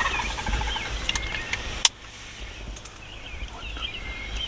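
Wild turkeys calling, mixed with small birds chirping, over a low rumble. A single sharp click comes a little under two seconds in.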